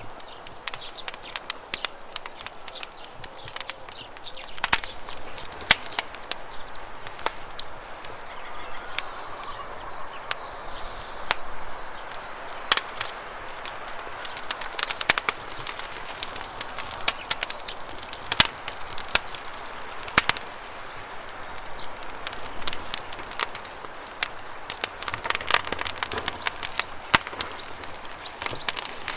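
Wood campfire crackling with irregular sharp pops and snaps over a steady rush of flowing river water. A bird chirps in a quick run of high notes about nine seconds in and briefly again near the middle.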